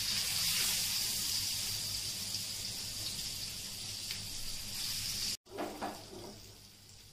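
Halved hard-boiled eggs frying in hot ghee in a pan, a steady sizzling hiss. Near the end it cuts out for an instant and comes back quieter.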